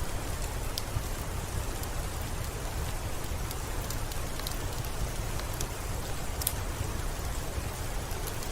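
Steady rain with a deep low rumble underneath and scattered sharp, high ticks every second or so.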